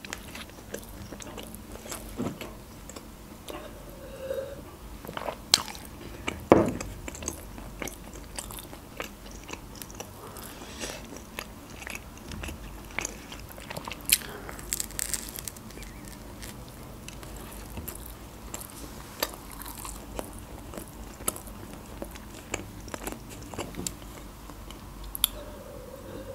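A person chewing and biting Turkish pide close to the microphone, with irregular crunches of the baked crust. One stronger crunch comes about six and a half seconds in.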